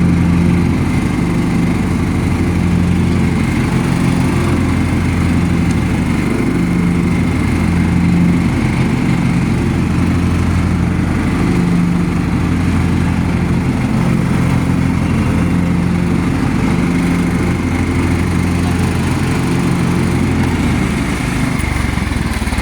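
Riding lawnmower engine running steadily with its deck blades engaged, cutting grass.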